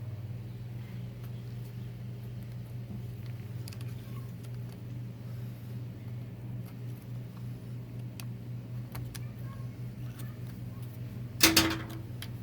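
Metal transmission parts being handled on the bench over a steady low hum: faint scattered clicks, then one loud metallic clank with a short ring about eleven seconds in.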